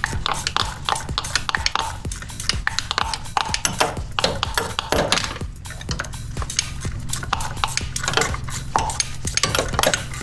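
Metal tools and engine parts clinking and clattering repeatedly, being handled while the engine is taken apart, over background music with a steady low drone.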